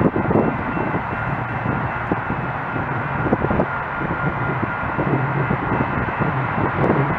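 A train running past, a steady loud rumble of engine and wheels on the rails with scattered short knocks.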